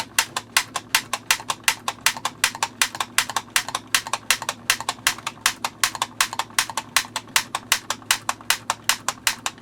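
LightKeeper Pro Christmas-light repair tool, its trigger squeezed over and over: a sharp click about six times a second. Each pull fires a pulse into the mini-light string to clear the shunt in a burned-out bulb.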